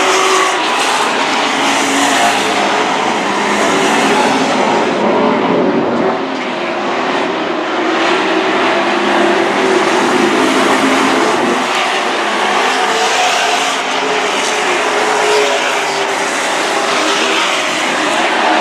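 Super truck race trucks running at racing speed around a dirt oval: the engines of several trucks blend into a steady, loud noise.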